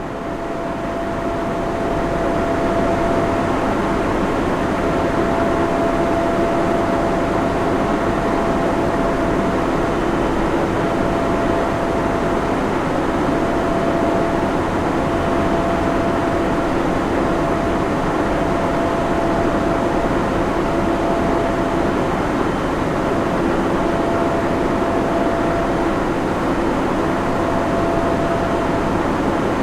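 Server room ambience: the steady rush of cooling fans and air handling, with a faint steady whine running through it. It fades up over the first couple of seconds and then holds level.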